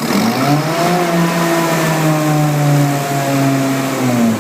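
Fuel-injected engine of a BlueLine Thermal Wave 5M truck-mount carpet cleaner just after starting: it surges up to high RPM within the first second, holds there, then drops back down near the end. This start-up flare is normal: the unit brings itself to high RPM to get the fuel flowing, then settles.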